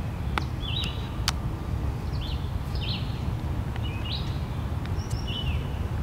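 A small bird chirping repeatedly in short, quick calls, roughly one a second, over a steady low rumble of outdoor background noise. A single sharp click comes just over a second in.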